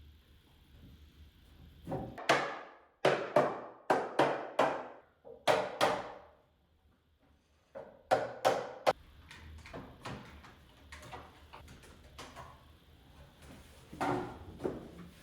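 A series of sharp wooden knocks, about ten strikes in two clusters, each with a short ringing decay, followed by softer scattered knocks and handling clatter.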